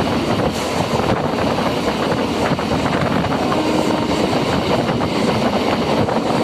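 Steady noise of a MEMU electric train in motion, with wind buffeting the microphone.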